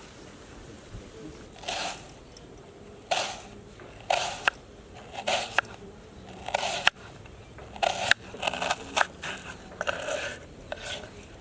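A run of short scraping, crunching noises, roughly one or two a second, from food preparation.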